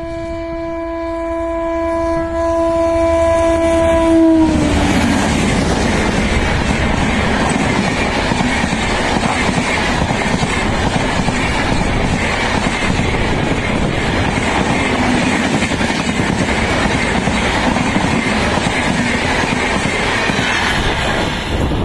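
Indian Railways WAP-7 electric locomotive sounding its horn in one long, steady blast that drops in pitch as the engine passes at speed about four seconds in. After it, the loud rush and clickety-clack of the Humsafar express's coaches running past at high speed.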